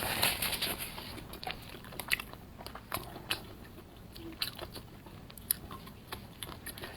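A person chewing and biting into crunchy fried skewered food, close to the microphone. The crunching is densest at first, then settles into chewing with a sharp crisp crunch every second or so.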